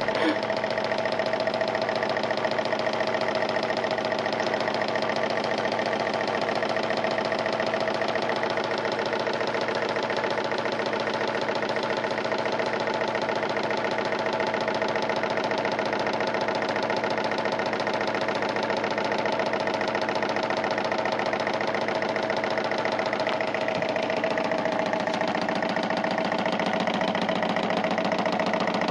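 TEKNOS KI-1741 electric fan running with an abnormal noise: a fast, evenly repeating clatter over a steady hum that keeps going without a break.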